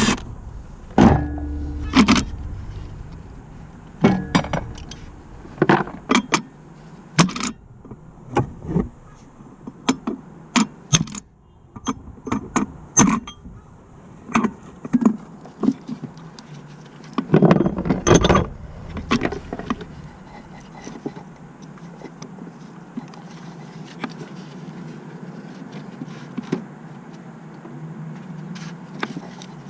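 Intermittent metallic clinks, clatters and knocks of tools and car parts being handled, with a louder cluster of knocks about seventeen seconds in and a steady low hum underneath.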